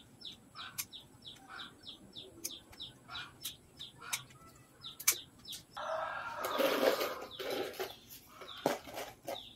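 A small bird calling a quick run of short falling chirps, about three a second, through the first half, with a few sharp snips of pruning shears cutting vinca stems. In the second half comes a louder stretch of rustling and scraping.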